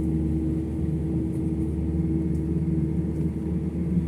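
Steady engine hum and road rumble of a moving vehicle, heard from on board.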